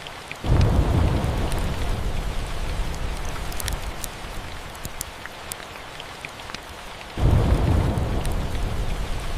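Steady rain with two sudden claps of thunder, one about half a second in and one about seven seconds in, each a deep rumble that fades over a couple of seconds. Scattered small crackles run through the rain.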